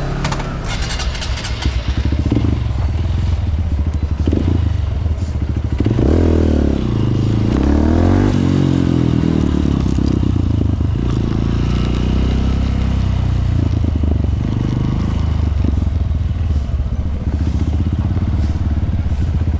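Honda CRF150L's single-cylinder four-stroke engine running while riding, its pitch rising and falling with the throttle, most clearly about six to nine seconds in.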